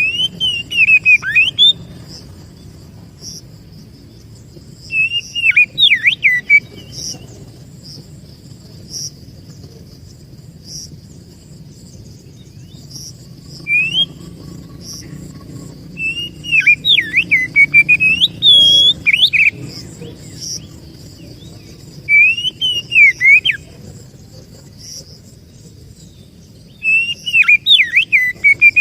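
Oriental magpie-robin (kacer) singing in about six short bursts of clear whistled phrases that slide up and down, with pauses of several seconds between them. A steady high whine runs underneath.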